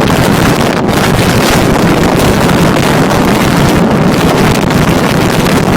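Blizzard wind buffeting the microphone: a loud, steady rush of wind noise.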